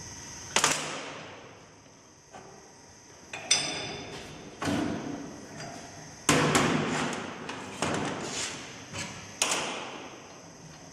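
Workshop bench sounds: about seven irregular knocks and clanks, like metal tools and parts being handled and set down, a few of them ringing briefly.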